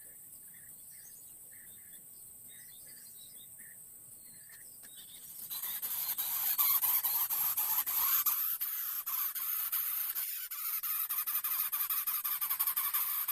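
Greater coucal chick begging with a loud, harsh, rasping noise made of rapid pulses, starting about five seconds in. Before that there are only faint short chirps repeating a few times a second.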